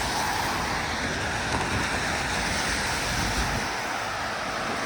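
Steady hiss of a rainy city street: traffic passing on wet pavement, with no single vehicle standing out.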